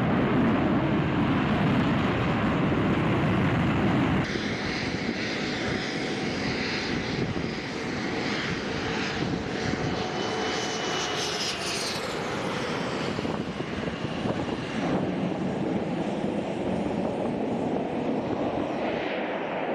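Panavia Tornado fighter jet engines running, a continuous jet roar with a faint falling whine about halfway through. The sound changes abruptly about four seconds in and again near fifteen seconds.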